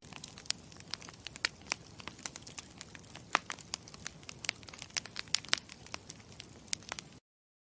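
Campfire crackling: a steady hiss of burning wood with many sharp, irregular pops and snaps.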